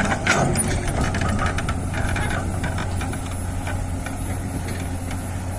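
Heavy diesel engine running steadily with a low hum, with scattered knocks and rattles in the first couple of seconds that then die away.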